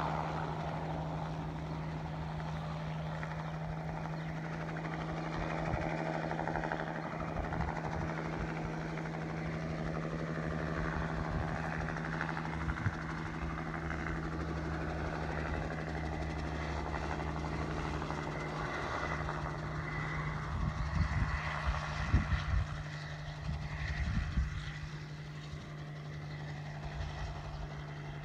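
Crop-dusting helicopter running steadily, a constant engine and rotor drone, with irregular low thumps and bumps in the last third.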